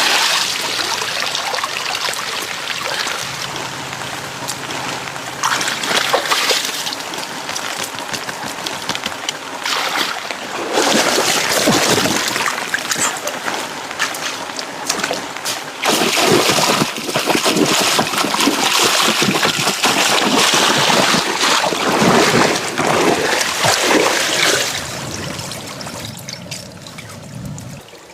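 Water splashing, sloshing and trickling in uneven surges, louder from about a third of the way in and fading near the end.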